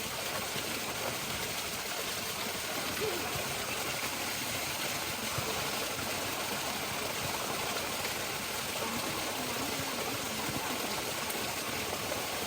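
Flowing water rushing steadily, a continuous even rush with no breaks.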